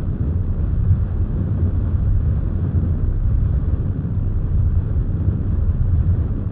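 Rocket lift-off sound effect: a steady, deep rumble that holds level without rising or fading.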